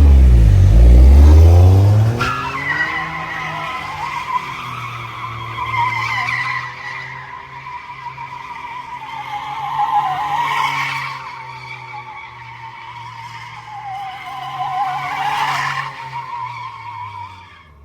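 A car spinning: the engine revs hard at the start, then the tyres squeal continuously over a steady engine note. The squeal wavers in pitch and swells louder three times.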